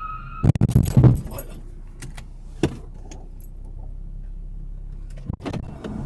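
Loud clattering, rattling impacts over the low steady hum of a car: a burst of hits about half a second in, a single sharp hit near the middle, and more hits near the end.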